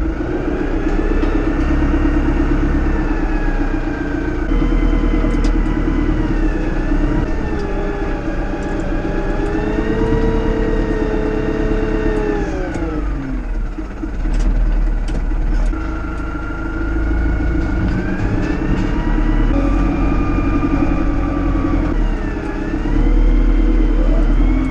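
Tractor diesel engine running hard, its revs rising and falling several times, with a marked drop about halfway through before it climbs again. The sound starts and stops abruptly.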